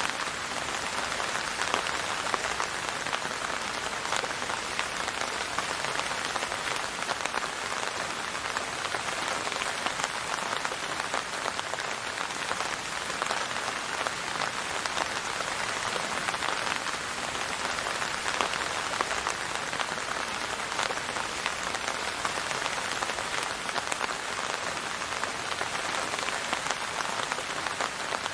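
Steady rain falling on a surface, a continuous even patter of many drops.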